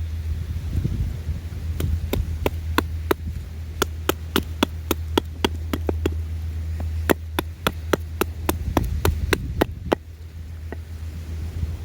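Knife cutting into wood in quick, sharp strokes, about two to three a second, pausing briefly near the end, over a steady low hum.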